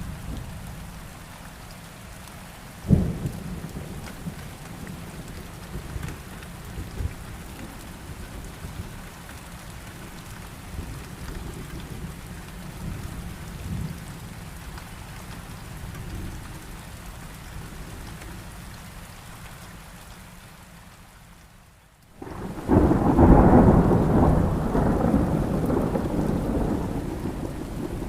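Thunderstorm with rain: low rolling thunder under the rain, with a sharp thunder crack about three seconds in. After a brief near-silent dip, a much louder thunderclap rumbles on through the last several seconds.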